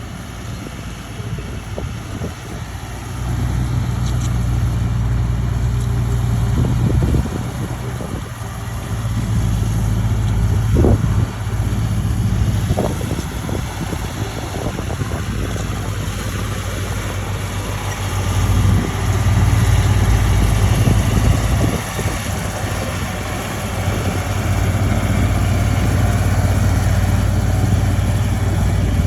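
Heavy diesel engine of earthmoving machinery running, its load and loudness rising and falling, with a few short clanks about 11 and 13 seconds in.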